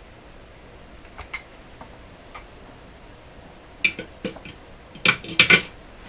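Hard objects being handled on a workbench: a couple of light clicks, then a louder run of clicks and clattering knocks near the end.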